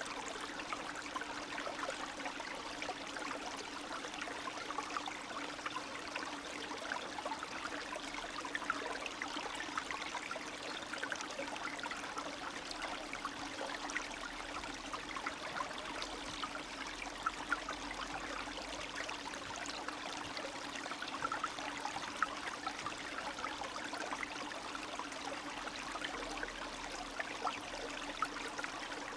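Small spring stream, snowmelt water running and trickling steadily over stones, with a constant babble of small splashes and gurgles.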